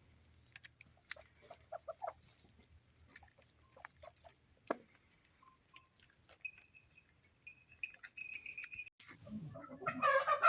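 Chickens clucking softly, among scattered small clicks and knocks, with a thin high steady note held for a couple of seconds past the middle.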